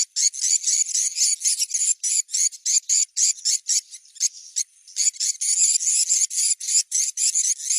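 Recorded swiftlet calls played as a lure sound: a dense stream of rapid, high twittering chirps, several a second with brief gaps, over a thin steady high tone. This is the kind of call track swiftlet farmers play to test whether a site draws swiftlets before building a nest house.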